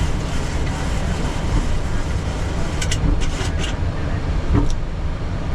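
Steady cockpit noise of a Boeing 737 on the ground after landing: a low rumble from the engines and the aircraft rolling. A few light clicks come about three seconds in and again near the end.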